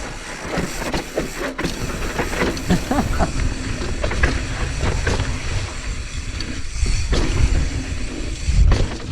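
Wind buffeting the microphone, with a low rumble, over the rattle and crunch of a mountain bike rolling down a rocky dirt trail.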